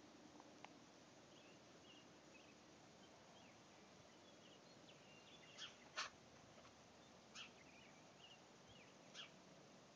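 Near-silent outdoor ambience with small birds chirping faintly throughout, and a few short, sharper chirps in the second half.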